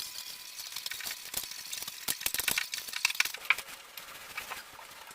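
Irregular light clicks, taps and clinks of small hard objects being handled, a few a second, with some louder taps around the middle.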